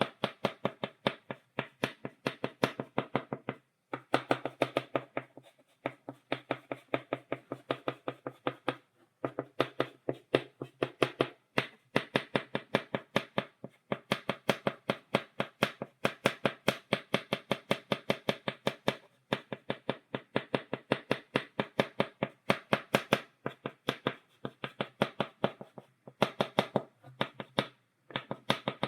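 Chalk tapping on a blackboard, stippling dots: rapid runs of sharp clicks, several a second, broken by short pauses.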